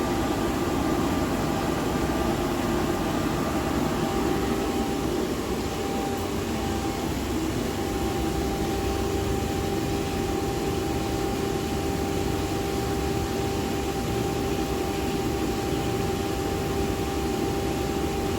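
Plant-room boiler burner firing with a steady rushing hum, settling into two steady tones about five seconds in. The burner is running during combustion adjustment, set with too much O2 in the flue gas.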